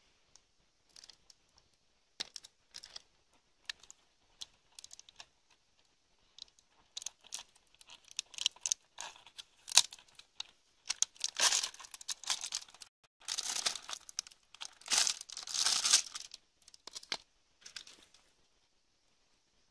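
Crinkling and rustling of something being handled, with scattered sharp clicks at first and then longer, louder crinkling stretches in the second half.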